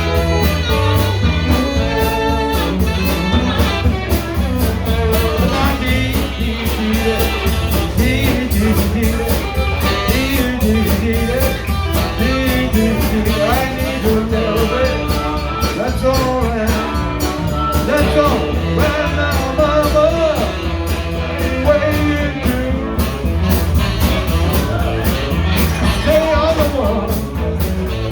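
A live band playing a blues-rock shuffle, led by electric guitar over drums.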